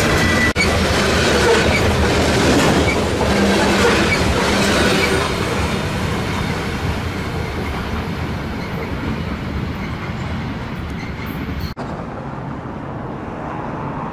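A freight train of covered hopper cars rolling past, its wheels running steadily on the rails. It grows fainter, and after a short break near the end it sounds duller as the train recedes into the distance.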